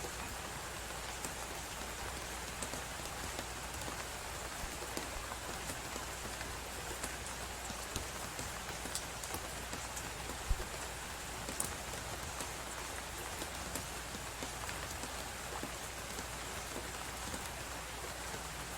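Wood fire in a fireplace crackling, scattered small pops over a steady hiss of snowstorm wind, with one louder pop about ten seconds in.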